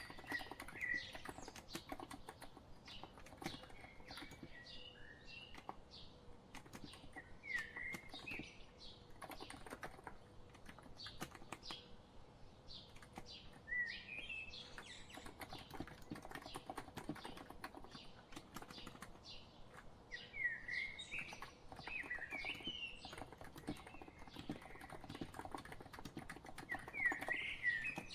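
Continuous typing on a COX Empress electro-capacitive keyboard, a steady patter of soft key presses. Short bird chirps come in every few seconds over the typing.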